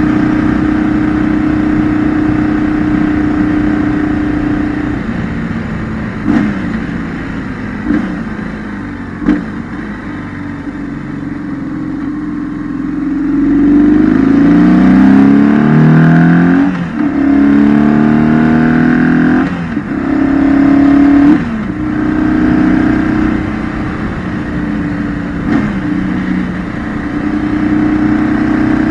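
2008 BMW R1200GS boxer twin engine heard onboard with no wind noise, running at steady revs, then easing off with a few short sharp breaks. About halfway through the revs climb in rising sweeps cut by brief gaps, like accelerating through gear changes, before it settles back to a steady note.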